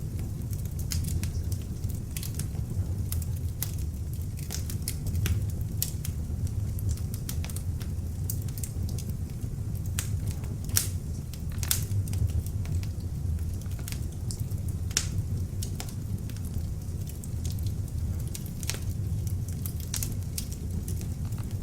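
Beech-wood log fire burning in an open fireplace: a steady low rumble of the flames with frequent sharp crackles and pops from the wood, scattered irregularly.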